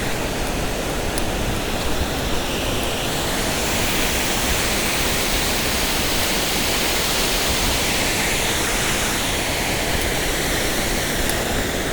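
A waterfall with a strong drop pouring: a steady rush of falling water.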